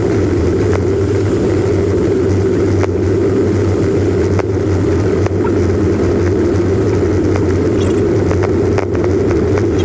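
Steady drone of a Jeep driving, heard from inside the cab, with a few light ticks scattered through it.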